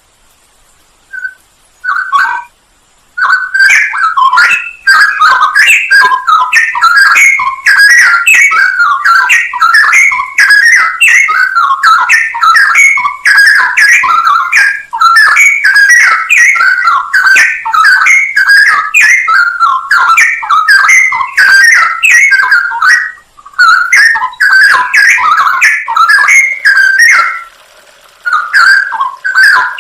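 Straw-headed bulbul (cucak rowo) singing loudly: a fast, unbroken run of chirping notes that starts with a couple of short calls, then pauses briefly twice near the end.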